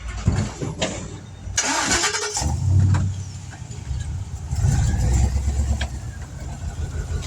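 An engine cranks and starts about two seconds in, then runs on at a steady low idle.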